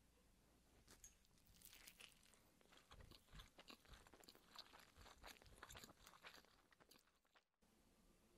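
Faint crunching and chewing of a grilled rice ball with a pan-toasted, soy-glazed crust: an irregular run of small crisp crunches that cuts off suddenly near the end.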